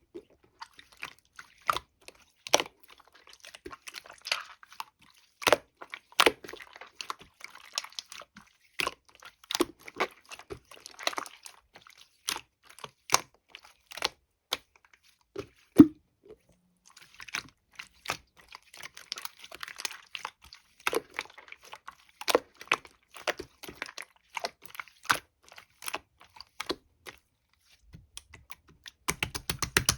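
Hands pressing, poking and stretching a chisel slime, its crisp textured surface crackling and popping in irregular sharp clicks, with brief pauses between handfuls.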